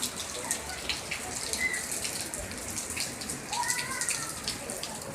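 Heavy rain pouring down: a steady hiss of falling water dotted with many sharp drop splashes.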